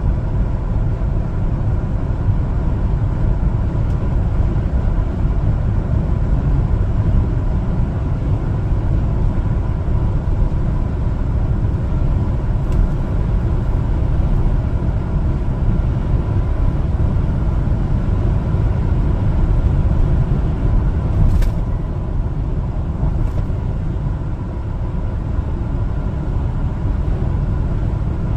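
A 1-ton LPG cargo truck driving on the road, with a steady low rumble of engine and road noise and no change in pace.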